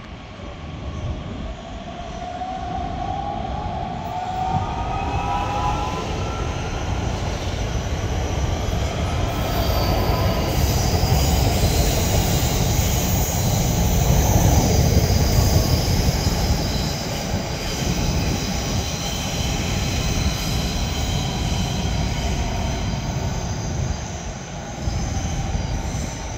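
DB class 442 Talent 2 electric multiple unit running along the platform. A rising electric motor whine in the first few seconds gives way to the rumble of its wheels, loudest about halfway through, with thin high squealing tones from about ten seconds on.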